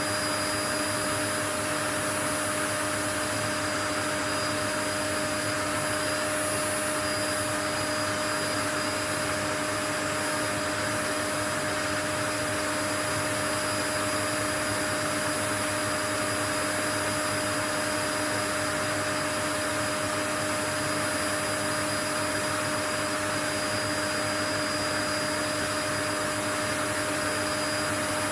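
Steady white noise: an even, unchanging hiss with a few faint constant tones running through it.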